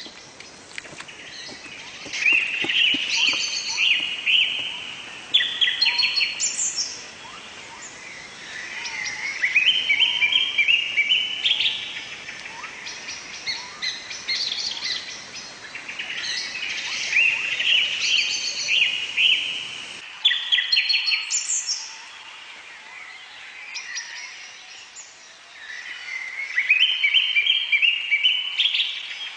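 Forest birds singing: one bird repeats a phrase of quick notes climbing in steps, several times with pauses of a few seconds between, among scattered higher chirps. A faint low background rumble cuts off suddenly about two-thirds of the way through.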